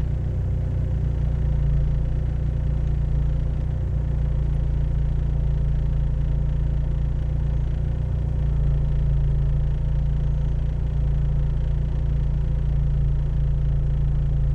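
Off-road 4x4 engine running steadily at low revs, a deep rumble that swells slightly a couple of times.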